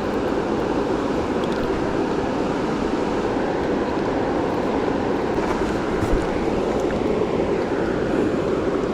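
Steady rushing of flowing river water, even and unbroken throughout.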